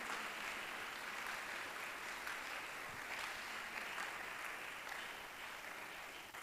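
Congregation applauding steadily at the preacher's call to clap, easing off slightly near the end.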